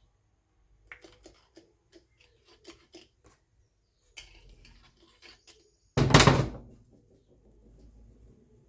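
Tools and metal parts handled during tractor axle work: a run of light clinks and knocks, then one loud, sudden noise about six seconds in that dies away within a second.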